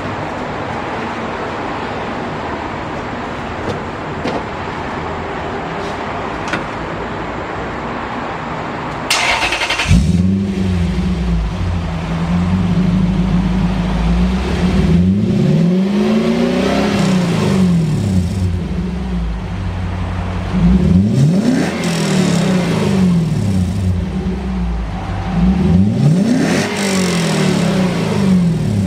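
Toyota 3UZ-FE V8 running with no muffler: after a steady rushing noise, it starts about nine seconds in, settles to idle, and is revved up and back down three times.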